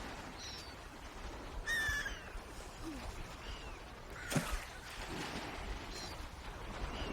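Swans calling: a series of short, downward-arching calls a second or so apart, the loudest about two seconds in, over a steady low background noise.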